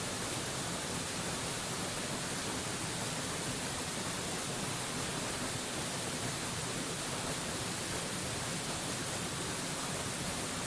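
Waterfall rushing: a steady, even hiss that does not change.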